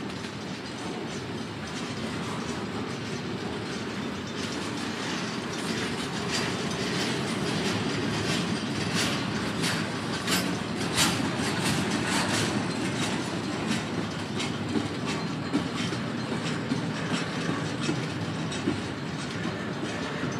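Double-stack container freight train rolling past on steel rails: a steady rumble of wheels on track, with a run of sharp clicks and knocks from the wheels through the middle.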